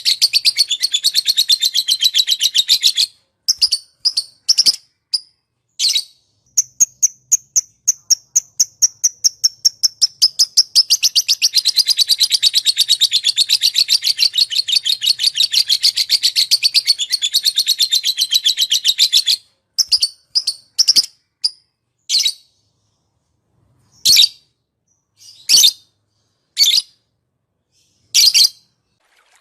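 Recorded songs of small songbirds, used as masteran training audio. A rapid trill of repeated high notes runs in the first three seconds. A long, even trill runs from about 6 to 19 seconds in, followed by separate short, sharp chirps a second or two apart.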